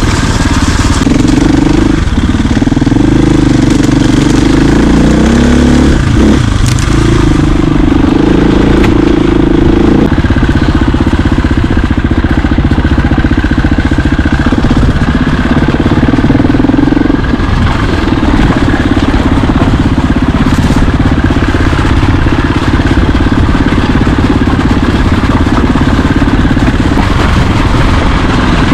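Dirt bike engine running as the bike is ridden, its note rising and falling a few times with the throttle.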